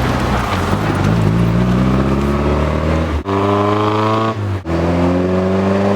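Triumph Spitfire 1500's four-cylinder engine accelerating, its note climbing in pitch, broken twice by brief sharp drop-outs, a little past three seconds and about four and a half seconds in.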